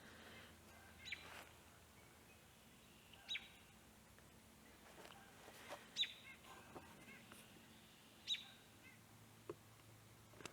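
A bird calling faintly: a short, sharp high call repeated four times, roughly every two to two and a half seconds.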